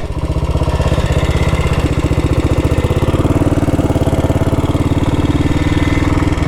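1962 Matchless G80CS's single-cylinder four-stroke engine running steadily with an even, rapid beat, just before pulling away in second gear.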